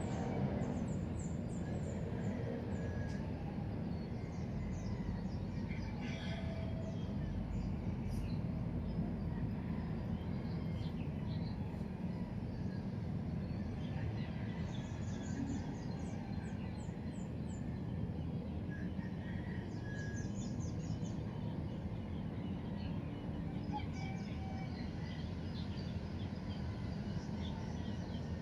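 Birds chirping over a steady low background rumble.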